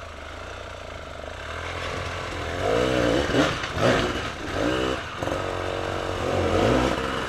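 Off-road motorcycle engine revving up and down over and over as a rider works it up a steep, loose-rock hill climb. It is faint at first and grows louder from about two seconds in.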